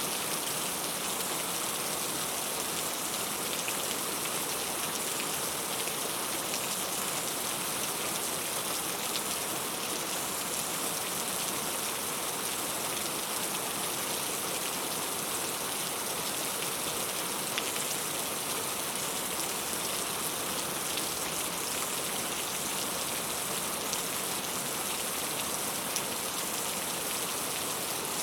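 Steady rain falling, an even hiss with the faint patter of individual drops.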